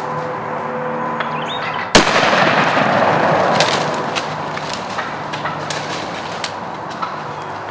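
A single shotgun blast about two seconds in, followed by a dense rush of noise that fades over the next couple of seconds, then a few small ticks.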